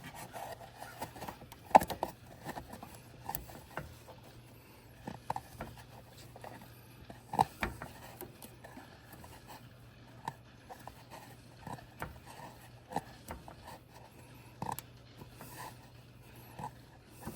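Scattered clicks, knocks and small scrapes of hands and tools working an oil filter loose under a mower engine, with the sharpest knocks about two seconds in and again near the middle. A faint steady low hum lies underneath.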